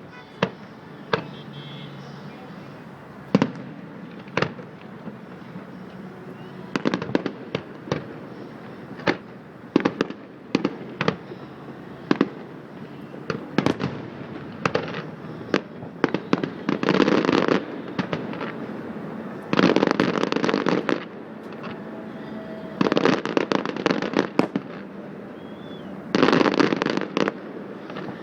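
Fireworks display: aerial shells bursting as single sharp bangs that come more and more often, then several stretches of rapid crackling bangs lasting a second or two each.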